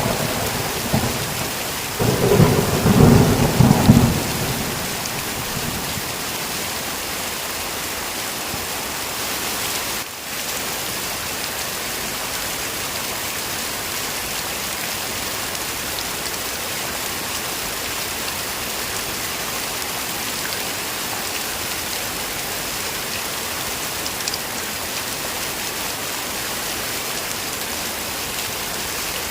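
Heavy rain falling in a steady hiss. A loud rumble of thunder rolls through a couple of seconds in and fades away within a few seconds. The rain then carries on evenly, dipping for a moment about ten seconds in.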